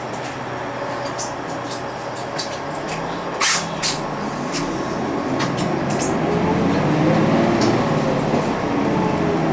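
Inside a UD Space Runner RA diesel city bus pulling away: two short bursts of air hiss about three and a half seconds in, then the engine climbing in pitch as the bus accelerates, dropping back once near the end for a gear change and climbing again.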